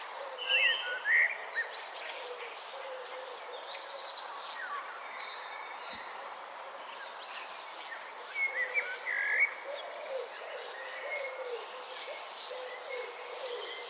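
Nature ambience: a steady high-pitched drone of insects such as crickets, with scattered bird chirps, whistles and quick trills over it.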